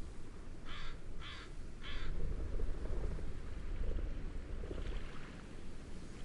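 A bird gives three short calls in quick succession, about half a second apart, with a fainter call a few seconds later, over a steady low rush of wind and waves.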